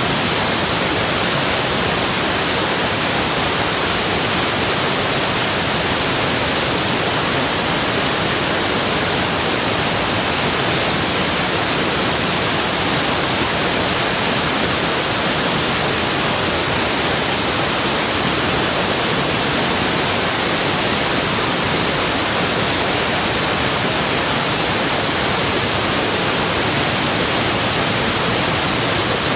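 Waterfall: a loud, perfectly steady rush of falling water, an even hiss-like noise with no change.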